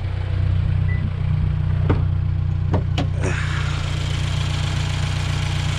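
Turbocharged Scion FR-S flat-four engine idling steadily while the car stands with an oil leak. A few sharp clicks come about two to three seconds in, and a steady hiss joins the idle just after.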